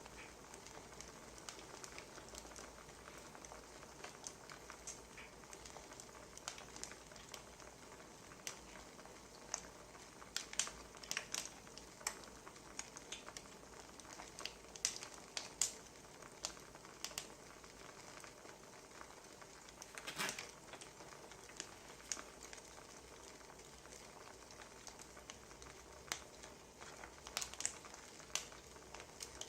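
Wood fire crackling: irregular sharp pops and snaps over a faint steady hiss, with a louder crackle about twenty seconds in.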